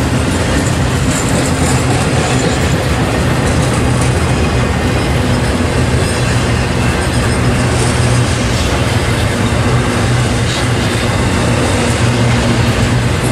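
Intermodal freight train cars rolling past close by: a loud, steady rumble and rattle of steel wheels on the rails, over a low hum.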